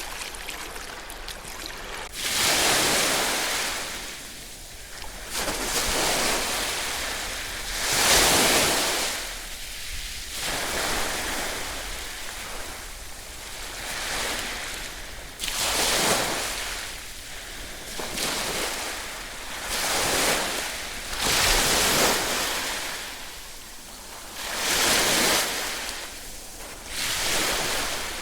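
Ocean surf: waves breaking and washing in, the hiss of water swelling and falling away every two to four seconds, after a quieter start.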